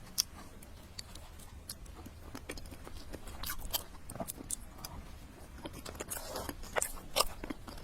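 Close-miked eating: a person biting and chewing food, with irregular sharp mouth clicks, a few louder ones about six and seven seconds in.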